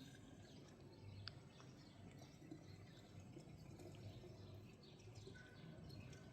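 Near silence: faint background noise, with a brief high tick about a second in and a faint high held tone near the end.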